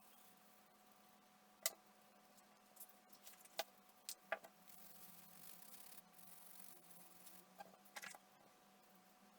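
Faint clicks and taps of small objects being handled on a workbench, about six in all, with soft rubbing between them in the middle, over a low steady hum of room tone.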